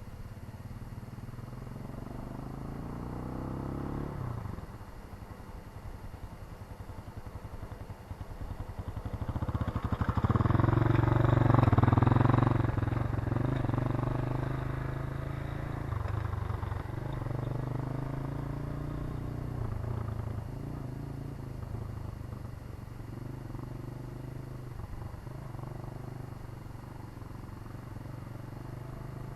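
Irbis Garpia 250 single-cylinder motorcycle engine running, heard from the side through its exhaust. The revs climb and drop off sharply about four seconds in, then the sound builds to its loudest around eleven to twelve seconds in and eases off, the revs rising and falling for the rest.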